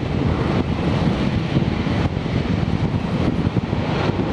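Distant jet noise from a Ryanair Boeing 737-800's CFM56-7B engines: a steady rumble with no clear whine, mixed with wind on the microphone.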